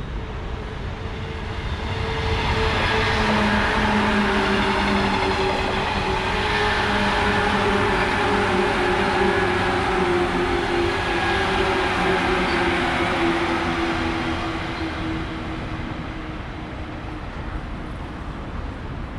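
JR East 185 series electric train passing close by on the rails, its running noise building up, holding, then fading away. A humming tone runs through the pass and slowly falls in pitch.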